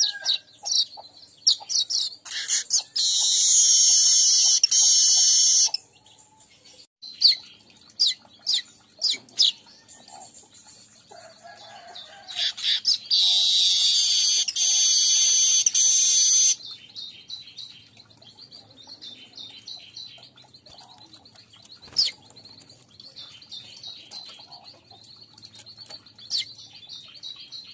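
Streaked weaver (manyar kembang) song: scattered sharp high chirps with two long, loud, buzzy trills of about three seconds each, one a few seconds in and one around the middle.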